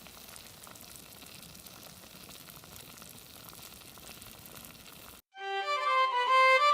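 Wood bonfire crackling with a steady hiss and many small pops. It cuts off about five seconds in, and background music led by a violin starts.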